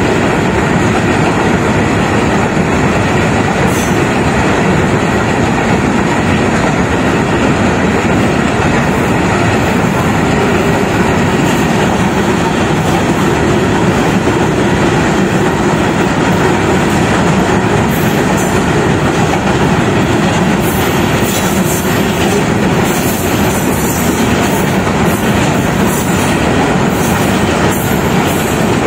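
Freight train of coal hopper wagons rolling past close by, a steady loud rumble of steel wheels on rails. Sharper clicks and clatter over the rail joints come through in the second half.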